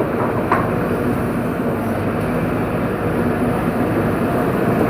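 Tracked hydraulic excavator's diesel engine running steadily, with a single sharp knock about half a second in.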